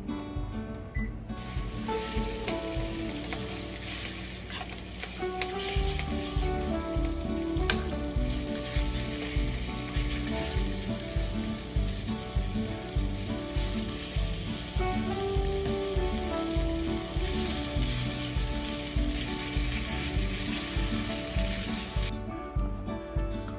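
Food sizzling as it fries in a pan, a steady crackling hiss that starts about a second in and cuts off abruptly near the end.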